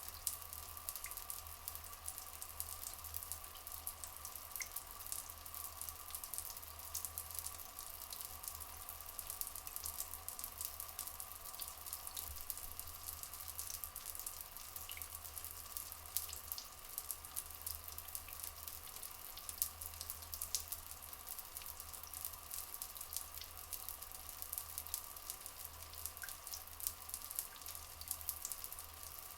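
Flowing water in a forest soundscape: a dense, steady patter of splashes and drips under an even hum, with a few faint short bird chirps now and then.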